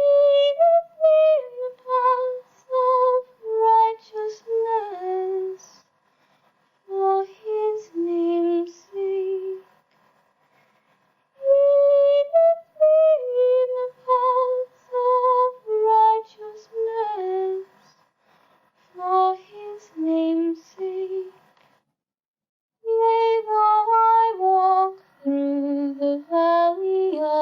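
Unaccompanied singing voice: a slow, held melody sung in phrases a few seconds long, with brief silences between them.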